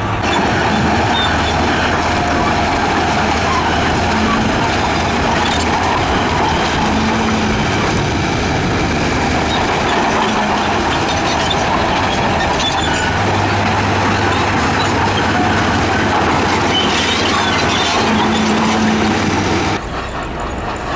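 Heavy diesel construction machinery running and working, a loud steady mechanical din with a low engine drone underneath; it drops suddenly to a quieter level near the end.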